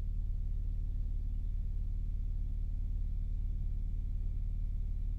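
Steady low drone of a police helicopter's engine and rotor, unchanging in pitch and level.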